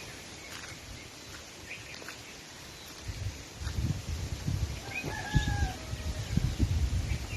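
A bird calling a few times over a steady hiss, with short chirps and one clearer pitched call about five seconds in. From about three seconds in, an uneven low rumble comes and goes and is the loudest sound.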